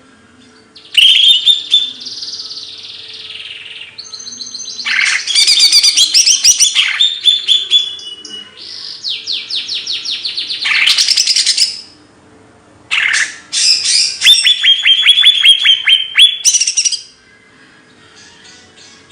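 A songbird sings loud, varied phrases of arching whistles, rapid trills and fast chattering note runs, with a short break about two-thirds of the way in before it ends on quieter notes. A faint steady low hum runs underneath.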